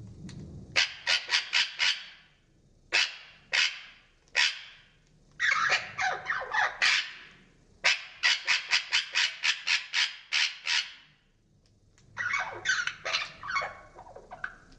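Budgerigar calls played back slowed down, so they sound deeper and parrot-like: short squawks come in quick runs of several at a time, with brief pauses between the runs.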